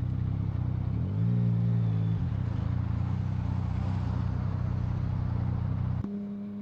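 Yamaha MT-09 three-cylinder motorcycle engine running under way, rising briefly in revs about a second in, then cutting out suddenly near the end. This is an unexplained stall that has happened before, which the rider had put down to heat.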